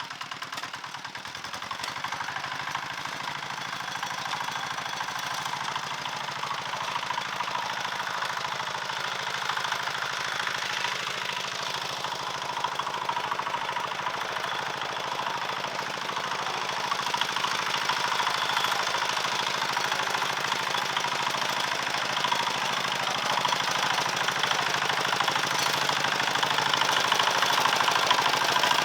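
A small engine running steadily with a fast, even knocking beat, growing gradually louder.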